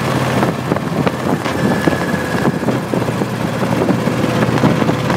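Motorcycle running steadily at road speed: a constant engine drone mixed with the rush of wind past the microphone.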